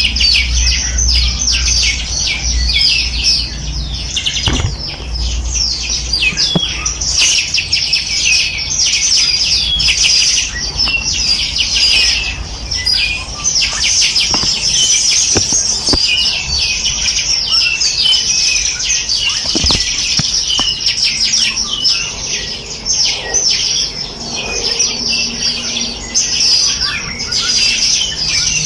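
A chorus of many small songbirds chirping and trilling without pause, with rapid, overlapping high-pitched notes. A low rumble sits underneath during the first few seconds.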